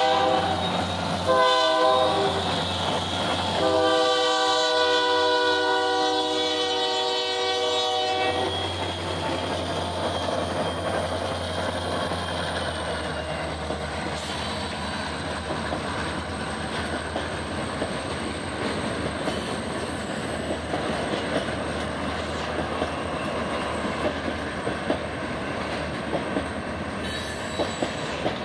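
Diesel locomotive air horn on the lead unit of an Indiana & Ohio SD40-2, Ohio Central GP38-2 and Ohio Central SD40-2 consist sounding for a grade crossing. A blast ends just after the start, then comes a short blast and a long one held for about four seconds, the end of the crossing sequence. Then the locomotives rumble past and a long string of freight cars rolls by with steady clattering of wheels over the rail joints.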